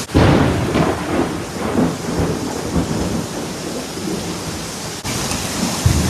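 A thunderclap breaks suddenly and rumbles unevenly for several seconds over steady rain. Near the end a second low boom of thunder comes.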